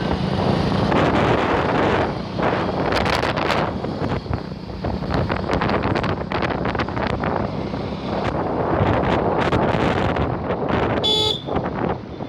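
Wind buffeting the microphone and road traffic noise while riding, with a short vehicle horn beep near the end.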